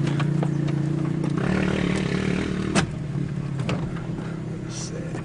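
Off-road vehicle engine running steadily, then revving up with more noise about a second and a half in. A sharp knock comes near the middle, after which the engine eases off.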